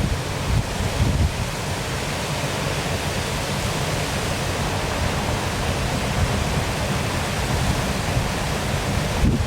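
Waterfall pouring with a steady, even rush of water. Wind buffets the microphone with low rumbles about the first second and again just before the end.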